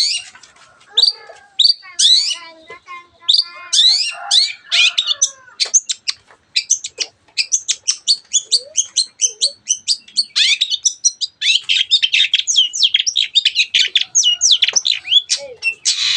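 Long-tailed shrike (cendet) singing: sharp, high, upward-sweeping notes at first, then from about six seconds a fast, unbroken run of chattering notes.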